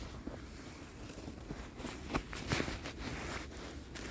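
Footsteps in snow: a few irregular, soft steps.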